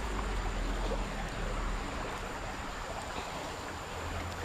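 Creek water flowing, a steady rushing over a low rumble.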